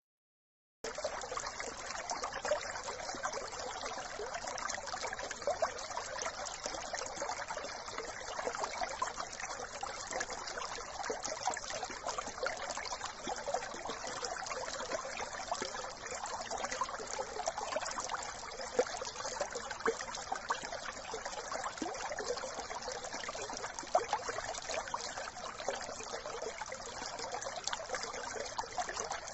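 A small brook trickling and babbling over stones, a steady, dense flow of water sound with fine splashy crackles. It starts suddenly about a second in, after silence.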